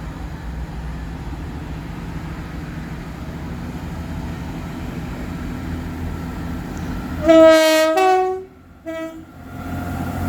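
Diesel train idling, then its horn sounds about seven seconds in: a loud note stepping up to a higher second note, followed by a brief short toot, sounded at the request for horn tones.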